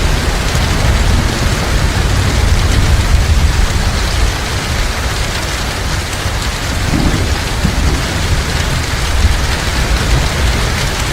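Heavy rain falling steadily in a dense hiss, over a continuous deep rumble of thunder.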